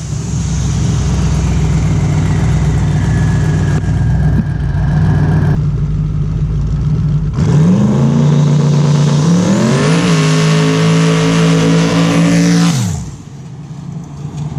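Twin-turbo LS V8 of a Ford Falcon running hard under load: it drops off briefly about six seconds in, then the revs climb for a couple of seconds, hold high, and fall away sharply near the end as the throttle closes, with a high turbo whine rising alongside.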